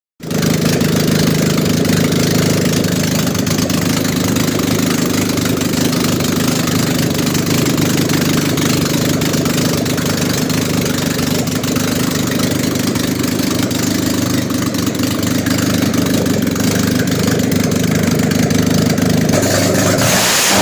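Toyota car engine idling steadily at an even speed.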